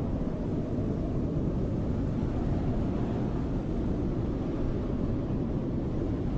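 Snowstorm wind blowing steadily, a deep, even rush without gusts or breaks.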